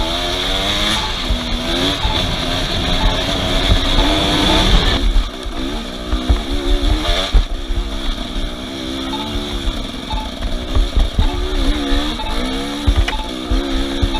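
An off-road vehicle's engine revving up and down again and again over rough ground, with a heavy low rumble; it is loudest in the first five seconds, then drops back and keeps revving in short surges.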